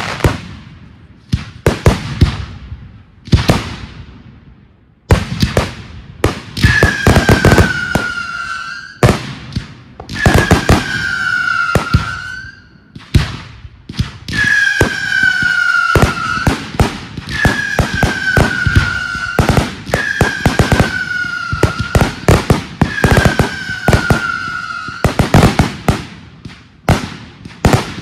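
Fireworks display: a rapid series of sharp bangs and crackles from bursting shells. From about six seconds in, whistling effects sound one after another, each a slightly falling whistle lasting a second or two, with bangs between them.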